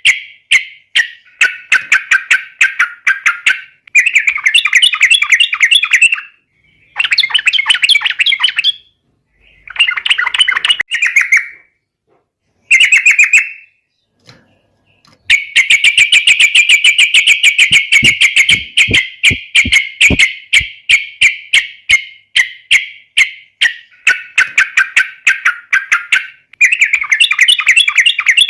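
Yellow-vented bulbul singing hard in fast, bubbling chattering phrases of rapidly repeated notes. The phrases come in bursts of a second or two with short pauses, falling almost silent for about two seconds near the middle. A long unbroken run of song follows.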